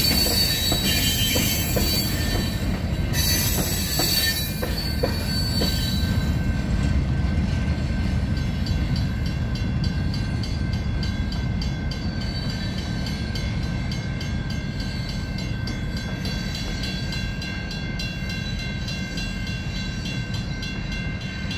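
Freight train's boxcars rolling past, the wheels squealing with high, thin tones for the first several seconds, then a steady rumble that slowly fades as the end of the train moves away.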